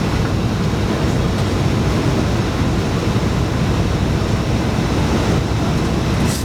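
Steady, loud rushing noise of a Boeing 757-200 heard from inside the cabin during landing: engine and airflow noise with a deep rumble. A brief click near the end.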